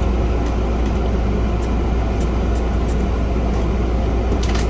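Steady low background rumble with a few faint, light clicks.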